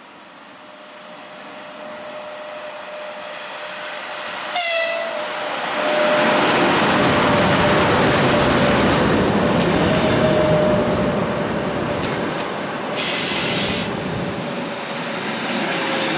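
EP1M electric locomotive hauling an express passenger train into a station: a short, sharp toot of its horn about four and a half seconds in, then the loud rumble of the locomotive and passenger coaches rolling past on the rails. A brief hiss comes about two-thirds of the way through.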